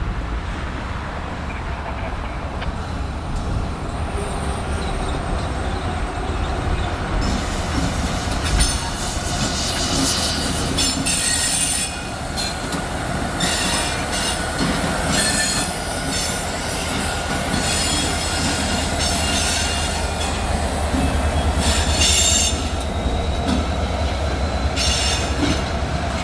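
Freight train rolling past through switches and a curve: a steady low rumble of wheels on rail, with the wheels squealing in repeated high-pitched bursts from about seven seconds in.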